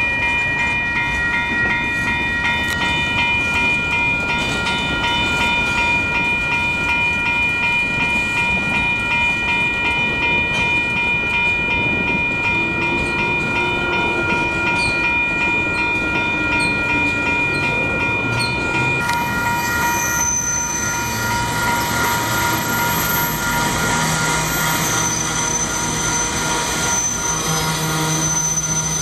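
Railroad crossing's electronic warning bell ringing steadily over the rumble of a slow-moving train. About two-thirds of the way through, most of the bell's tones drop away and a thin high-pitched whine takes over.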